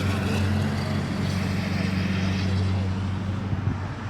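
A motor vehicle engine idling steadily with a low, even hum, with faint voices behind it.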